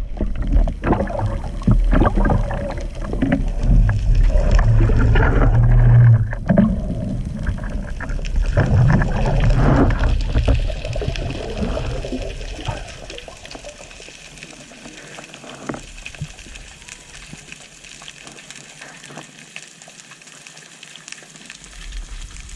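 Water sloshing and rushing, as heard by a camera underwater or at the surface while spearfishing, with many small knocks and clicks. It is loud for the first dozen seconds, then drops to a quieter wash.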